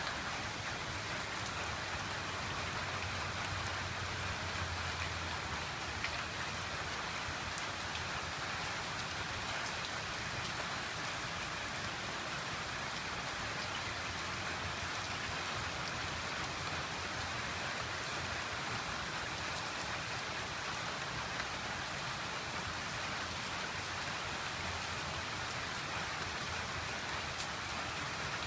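Steady rain falling, an even hiss of drops with a few separate louder drop ticks.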